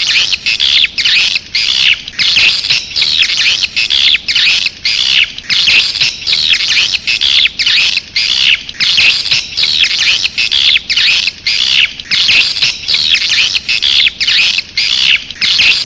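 Recorded swiftlet calling sound, a lure call for swiftlet houses: loud, rapid chirping twitters repeated about twice a second without a break.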